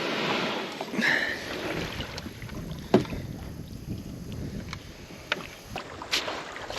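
A small bass boat drifting on the water, with wind on the microphone and a few sharp knocks, the loudest about three seconds in.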